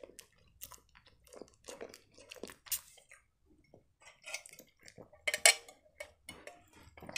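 Close-miked chewing of a cherry-and-vanilla strudel: soft, irregular wet mouth clicks and smacks. About five and a half seconds in comes a louder cluster as a sip is taken from a drink can.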